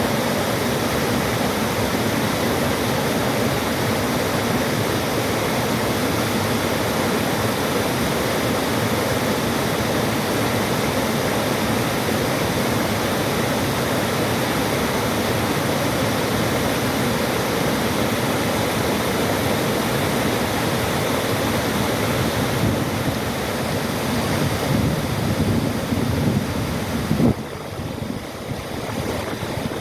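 Steady rushing roar of a waterfall's falling water. Near the end there is a single knock, after which the roar is quieter and duller.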